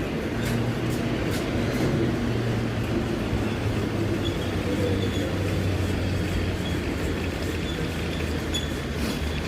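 PKP EP07 electric locomotive on a shunting move, towing a failed EP09 electric locomotive: a steady low hum, with a few faint clicks in the first couple of seconds and near the end.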